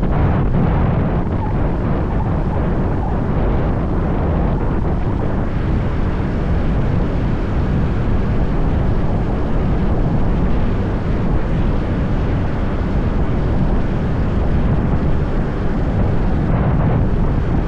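Steady low wind rush and road noise from a moving motorbike, with wind buffeting the microphone.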